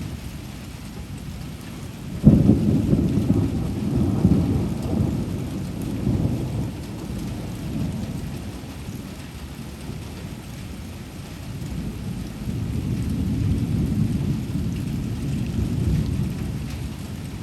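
Steady rain falling through a thunderstorm, with a sudden thunderclap about two seconds in that rolls on and fades over several seconds, and a second long rumble of thunder near the end.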